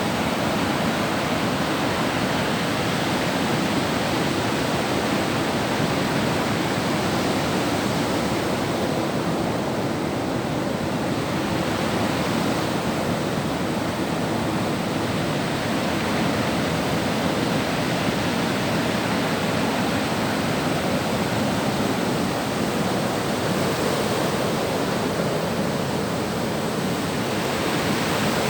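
Sea surf washing on the shore, a continuous rushing noise that slowly swells and eases.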